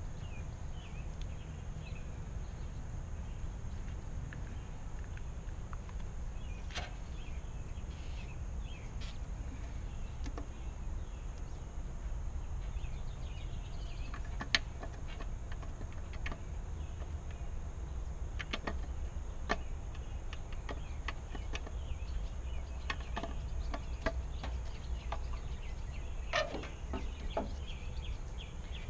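Scattered small clicks and taps of new bulbs being fitted into a truck's turn signal assembly, one sharper click about halfway through, over steady outdoor background noise.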